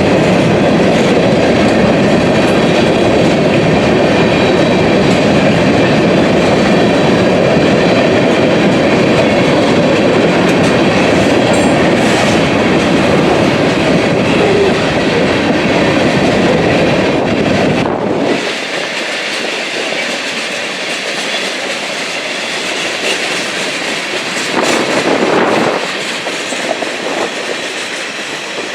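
Freight train cars rolling past, wheels clattering over the rail joints with a heavy rumble. About two-thirds of the way through the low rumble drops away abruptly, leaving a quieter rushing rail noise.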